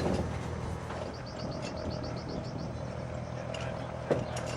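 A bird's rapid high trill, about eight quick chirps a second for a second and a half, over a steady low mechanical hum, with a sharp click near the end.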